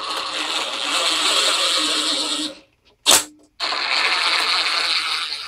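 Ratchet wrench spun quickly to run in 3/8 bolts, in two spells of rapid clicking with a short knock between them as the socket moves to the next bolt.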